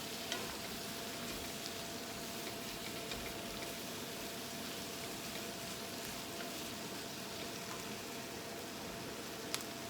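Chicken, prawns and vegetables cooking in a pan: a steady sizzling hiss with a few small pops and a sharp click near the end.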